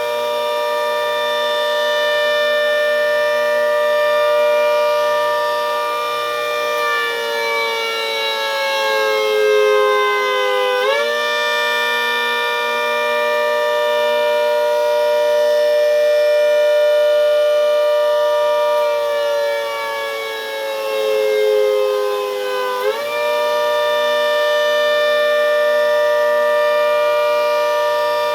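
Half-scale Hurricane siren sounding the Attack signal, its blower wired in reverse: a loud chord of several tones that holds steady, sags slowly in pitch for a few seconds, then snaps quickly back up, twice.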